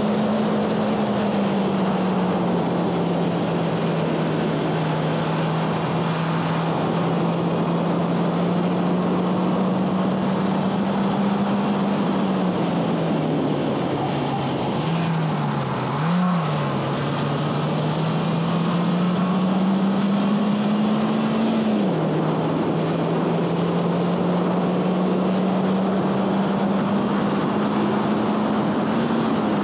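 The 2011 Honda Fit Sport's 1.5-litre four-cylinder engine is working hard on track, with its note climbing and dropping as it is driven through the gears. About halfway through, the revs dip and blip up twice quickly, as on a rev-matched heel-toe downshift, then climb again to a shift a few seconds later. A steady rush of wind and road noise runs underneath.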